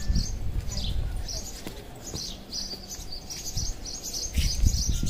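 Small birds chirping over and over in short high notes, over a low rumble that swells near the end.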